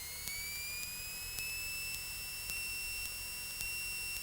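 Electrical whine picked up in a light aircraft's intercom audio: a thin high tone that rises in pitch over the first second or so and then holds steady, with faint ticks about once a second.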